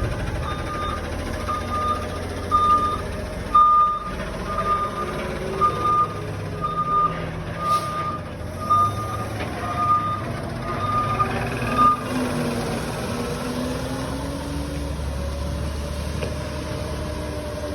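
Front-loader garbage truck's backup alarm beeping about once a second as the truck reverses, stopping about twelve seconds in, over the truck's running engine, whose pitch rises and falls.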